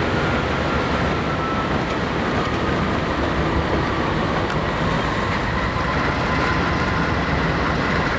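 Train rolling by: a steady noise of wheels on rails, with faint high whines that slowly fall in pitch.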